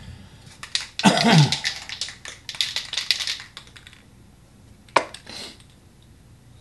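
Paper cut-out shapes being handled at a craft table: a run of rustles and small clicks lasting about three seconds, then a single click and a short rustle near the end.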